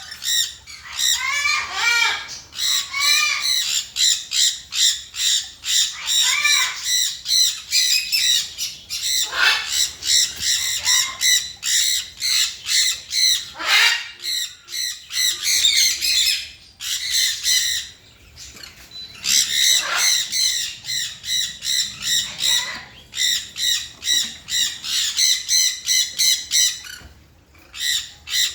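Ringneck parrots squawking: a near-continuous run of rapid, harsh, repeated calls, some sliding downward in pitch, broken by short lulls about two-thirds of the way through and again near the end.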